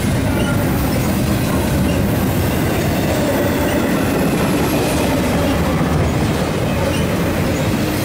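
Double-stack intermodal container train rolling past close by: a steady, loud rumble of steel wheels on rail, with thin wavering tones running through it.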